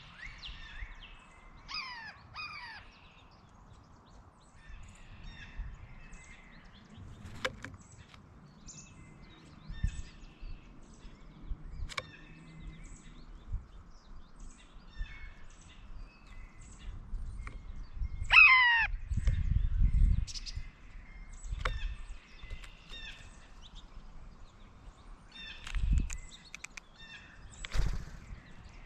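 Wild birds calling: scattered short chirps throughout and a quick series of harsh, falling calls twice, the louder about two-thirds of the way through. Low thumps and rumbles come in between.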